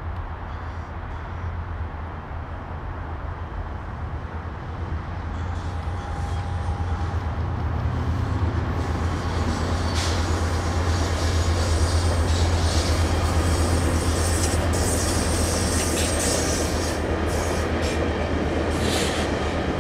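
Metrolink commuter train of bi-level passenger cars rolling across a steel girder bridge, its diesel locomotive's low drone swelling louder from about a third of the way in. Wheels click over the rail joints, with a thin high squeal from the wheels during the loudest part.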